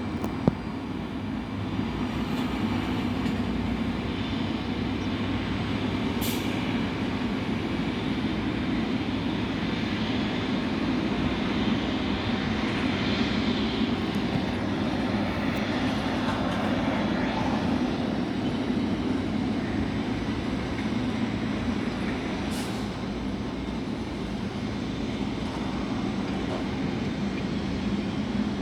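Boeing 777-300ER's GE90 jet engines running, a steady roar with a fainter whine that rises and falls in the middle.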